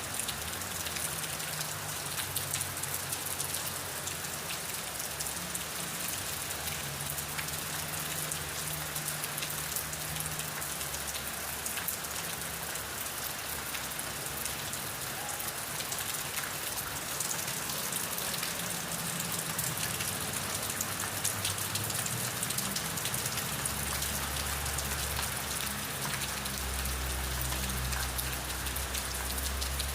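Steady rain with many individual drops pattering on a surface. A low rumble underneath grows stronger in the last few seconds.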